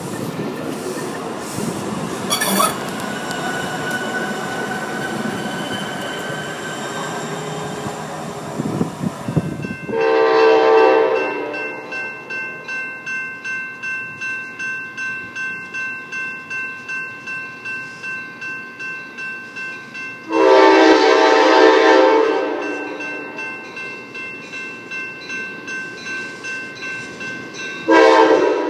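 A MAX light-rail train running past with steady wheel and motor noise. Then, at a grade crossing, the crossing bell rings about twice a second while an approaching locomotive sounds its air horn in two long blasts, a third starting near the end.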